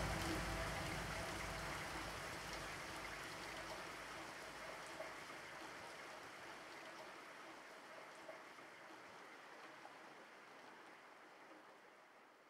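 Rain-like hiss closing out the song, fading steadily away, while the last faint held notes and low rumble of the music die out over the first few seconds.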